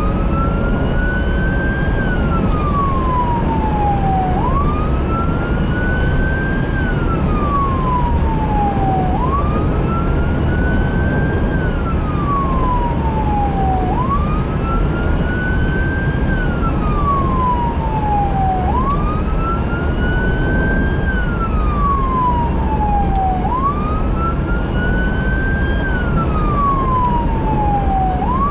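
Emergency vehicle siren on a slow wail, rising and falling about every five seconds without a break, over steady engine and road rumble.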